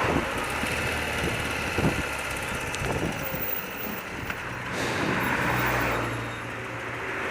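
Old BMW motorcycle engine running steadily on the move, with wind noise over the microphone. It swells louder for a second or so about five seconds in.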